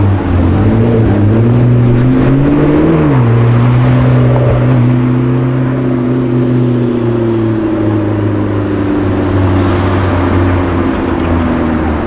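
A sports car's engine pulling hard, its note rising for a few seconds and then dropping sharply about three seconds in as it shifts up a gear. It then holds a steady, slowly sinking note.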